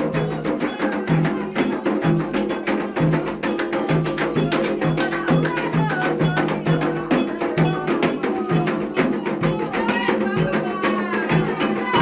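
Percussion-led music: fast, even clicking strikes over a repeating low drum pattern, with singing voices coming in about halfway through.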